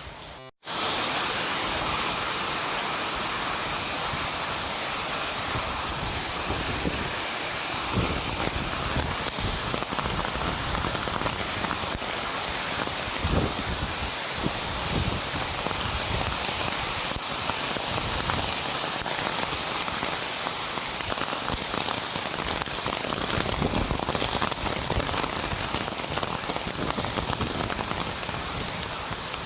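Heavy rain falling, a dense steady hiss with scattered sharper taps, starting abruptly about half a second in.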